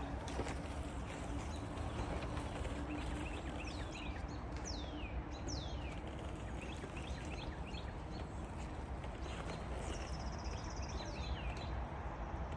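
Birds calling: a run of short, downward-sliding high chirps a few seconds in and a buzzy call near the end, over steady outdoor background noise.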